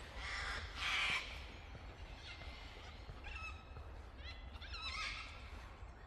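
Wild birds calling: two loud, harsh squawks in the first second or so, then a run of quieter, higher chirping notes that wobble quickly in pitch.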